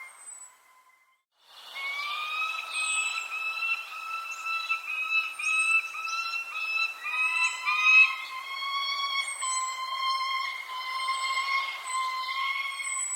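Birds chirping: short, high, falling chirps repeat every second or so over a sustained whistling tone that shifts slightly in pitch. The sound drops out briefly about a second in, then resumes.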